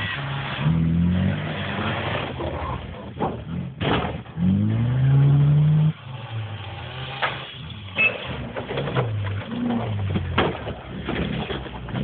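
Engines of a Renault 11 and a Škoda 120 revving and falling back as the cars manoeuvre, with one strong rising rev about four seconds in. Several sharp knocks cut through, a few seconds apart.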